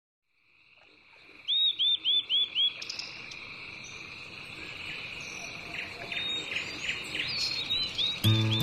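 Countryside ambience fading in: insects droning steadily while a bird repeats a short, arched call, five quick loud notes about a second and a half in, then another run of calls in the second half. Music starts just before the end.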